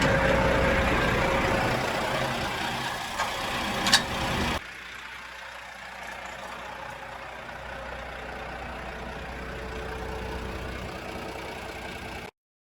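Delivery truck engine idling steadily, with a sharp click about four seconds in. About halfway through the sound drops suddenly to a much quieter steady hum, which then cuts off near the end.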